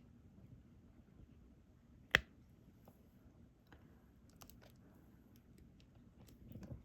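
Small scattered plastic clicks and taps of a diamond-painting stylus picking up resin drills and pressing them onto the sticky canvas, with one sharper click about two seconds in.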